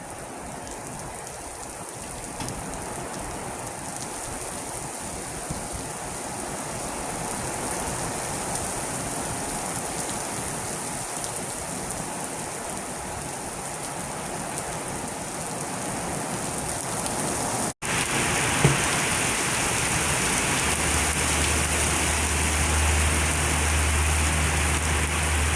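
Torrential squall-line rain pouring down in a steady hiss that slowly grows heavier. It breaks off for an instant about two-thirds of the way through and comes back louder, and a low steady hum joins it near the end.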